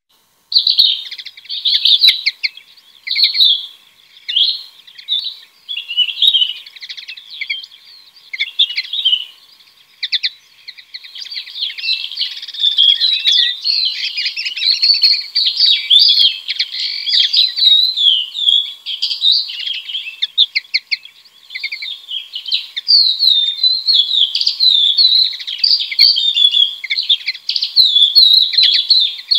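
Birds chirping and twittering, with separate bursts of chirps in the first ten seconds, then a dense, nearly continuous chorus of overlapping chirps.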